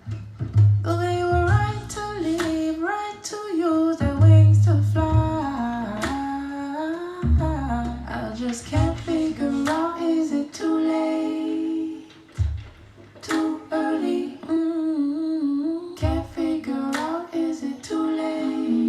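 A voice hums a wordless melody over plucked guitar accompaniment, with low bass notes under the chords.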